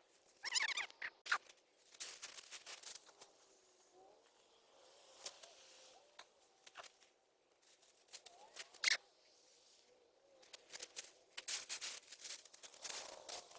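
Irregular rustling, scraping and clicking from potatoes being dug out of soil and plants, busiest near the end.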